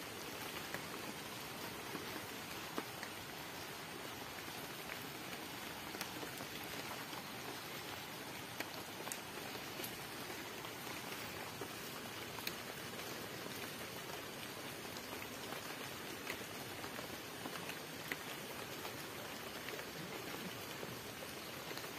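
Steady rain falling on leaves and wet ground, an even patter with a single louder drop standing out every few seconds.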